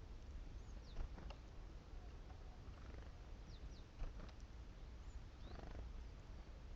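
Small birds, great tits, giving faint, thin, high call notes. Two pairs of sharp taps come about a second in and about four seconds in, and a brief low flutter comes near the end.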